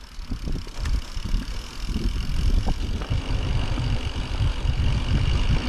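Mountain bike rolling fast down a snowy singletrack: low rumble of the tyres and rattling bike, with wind buffeting the helmet or action-camera microphone, growing louder about two seconds in as the bike picks up speed.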